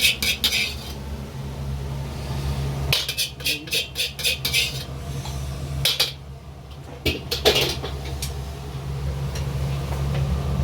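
Kitchen clatter: sharp metal clinks of utensils against cookware in several quick bunches, over a steady low hum.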